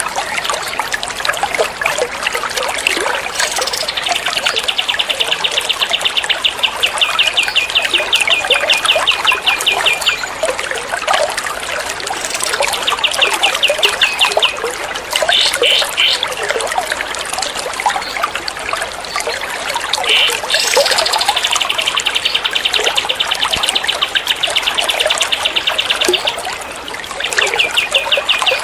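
Recorded songbird calls played for bird training: rapid trills of quick, evenly repeated high notes, two long runs of several seconds and a few short bursts, over a steady sound of trickling water.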